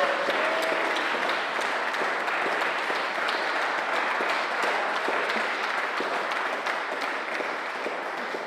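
Audience applauding at the end of a song, the clapping dying away near the end.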